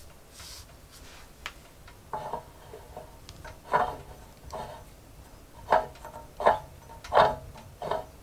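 Wood fire crackling: irregular sharp pops and snaps from the burning logs, with several louder pops in the second half.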